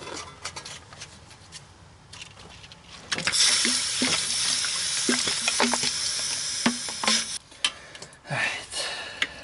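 Water thrown onto the heated harmonic balancer of a 2003 Honda Civic's 1.7 L engine, sizzling loudly as it boils off the hot metal. The hiss begins about three seconds in and dies away about four seconds later, with small drips and taps through it. The metal is being cooled quickly so it shrinks and a stuck bolt can break loose.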